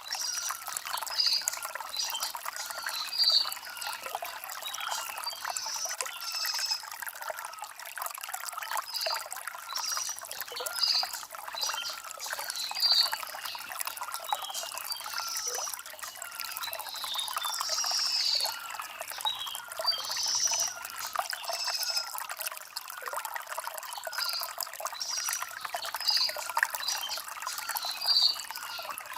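Shallow stream trickling and splashing over river stones, a continuous bright burble full of small quick splashes and almost no low rumble.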